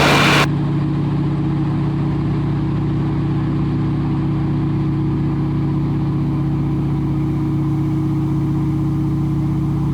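T-6 Harvard's Pratt & Whitney R-1340 Wasp nine-cylinder radial engine droning steadily in cruising flight. It sounds muffled, and the higher sounds cut off abruptly about half a second in, leaving only the low, even engine tone.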